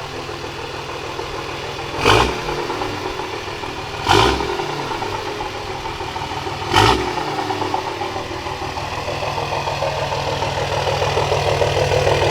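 2006 Dodge Ram 2500's Cummins 5.9-litre inline-six turbo diesel, fitted with a straight-piped 3-inch exhaust, running with a steady low drone. It is broken by three short louder bursts, about two, four and seven seconds in.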